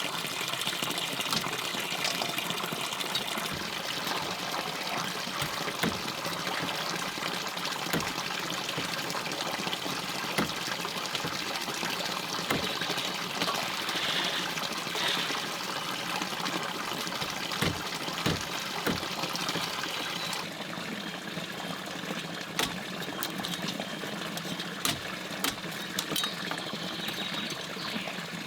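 Stream water running steadily, with scattered small knocks and clicks; the water sound shifts abruptly about two-thirds of the way through.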